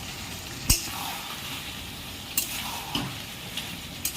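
Chicken and potatoes sizzling in mustard oil in a kadai while being stirred with a spatula, with a sharp knock of the spatula against the pan about a second in and a few lighter knocks later.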